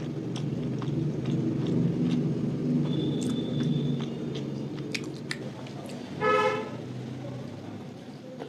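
Short clicks of chewing and mouth sounds over a steady low hum. A vehicle horn toots once, briefly, about six seconds in, and it is the loudest sound.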